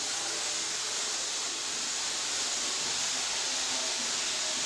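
Steady hiss with no distinct event.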